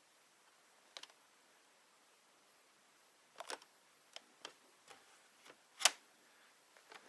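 Scattered sharp clicks and taps of a robot vacuum's plastic parts being handled, with a brief cluster about three and a half seconds in and the loudest, sharpest click about six seconds in.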